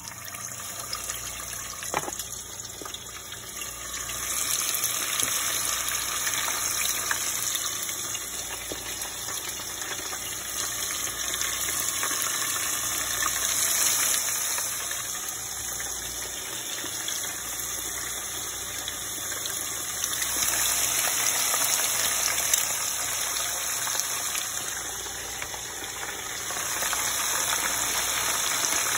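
Unbattered pig tails deep-frying in hot grease in a saucepan: a steady, dense sizzle and crackle of bubbling oil, getting louder a few seconds in.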